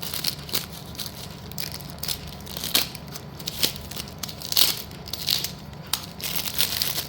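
Packaging crinkling and rustling with irregular sharp clicks as packs of circle-shaped slate pieces are handled and checked for breakage.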